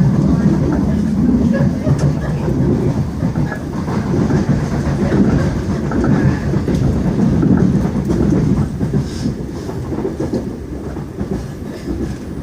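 Electric commuter train running, heard from inside the carriage: a steady low rumble with a few clicks from the wheels on the track. The rumble eases a little near the end.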